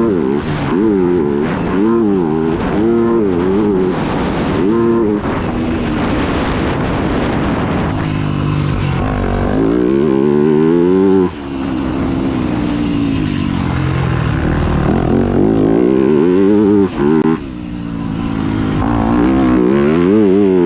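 Yamaha YZ250F's 250cc four-stroke single-cylinder engine being ridden hard, revving up and falling back again and again as the throttle is opened and shut. The throttle is chopped sharply about 11 seconds in and briefly again near 17 seconds.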